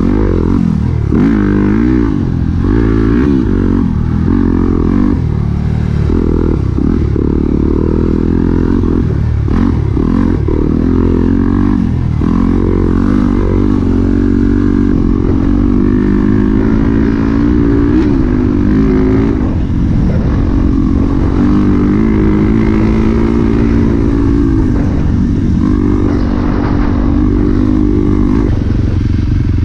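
Dirt bike engine running hard while riding, its pitch repeatedly rising and falling with throttle and gear changes.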